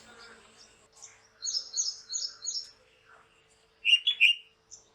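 Small birds chirping: a run of four short high chirps, then three louder quick notes near the end.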